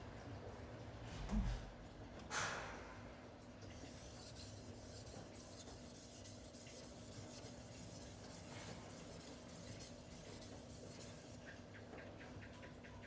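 Cleaver blade stroked repeatedly across a 2500-grit silicon carbide waterstone, a steady faint rasping as the edge is refined and the burr knocked down. A low thump about a second in and a brief hiss just after come before the strokes settle in.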